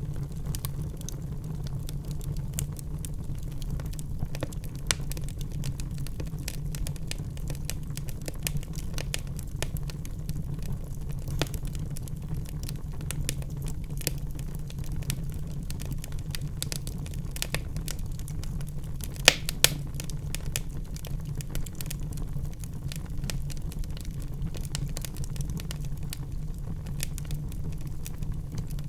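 Wood fire crackling in a fireplace: a steady low rumble of flame under frequent small snaps and pops, with two louder pops about two-thirds of the way through.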